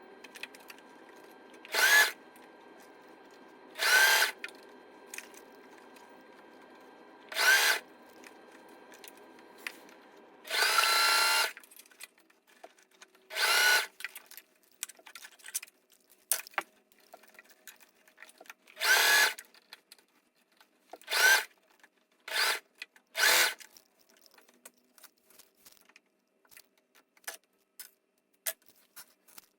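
Heavy-duty sewing machine stitching in short bursts of about half a second, about nine in all, with one longer run of about a second near the middle. Small clicks come between the bursts, and a steady hum underneath stops about a third of the way through.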